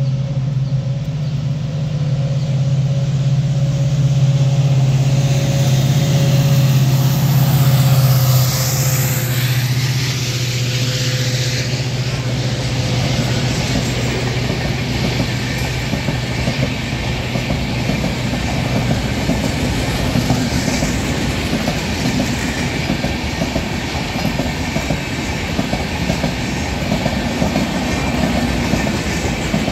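Jan Shatabdi Express passing close by: a steady low hum from the approaching train, loudest about eight seconds in, where a higher tone dips slightly in pitch and fades. Then the blue coaches roll past with a continuous rumble and clatter of wheels on the rails.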